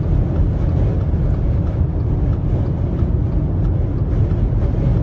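Strong dust-storm wind buffeting a car, heard from inside the cabin as a loud, steady low rumble with a hiss above it.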